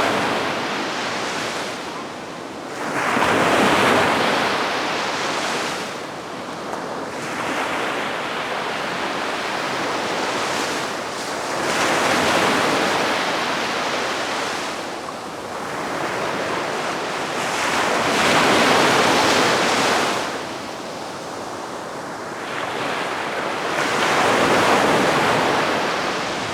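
Calm sea waves washing onto the shore, each one rising and fading away, about every five seconds.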